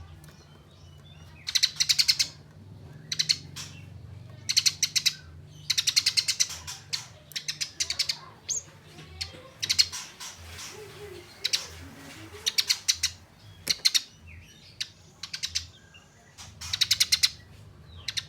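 Eurasian tree sparrow giving its harsh, rapid chattering fighting call in short volleys, one every second or two, each a fast train of sharp notes. It is the aggressive, challenging chatter used as a lure to make other sparrows answer.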